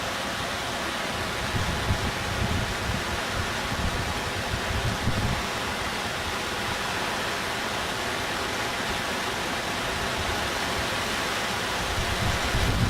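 Steady rush of floodwater from a river overflowing in a typhoon, with wind buffeting the microphone in uneven low gusts.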